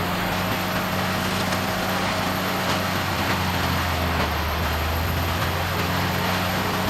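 Morbark 1100 tub grinder running steadily, its diesel engine's low drone under a broad grinding noise with a few faint scattered knocks.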